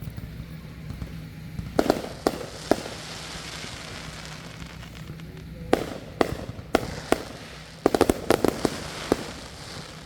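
Fireworks going off in a backyard display: sharp bangs in loose groups, three close together about two seconds in, four more spaced across six to seven seconds, then a quick cluster of reports around eight to nine seconds. A steady low hum runs underneath.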